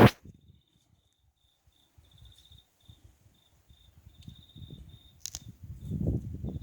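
An insect chirping in short, high, beaded trills that come and go. A sharp knock at the very start is the loudest sound, and a low rumble builds near the end.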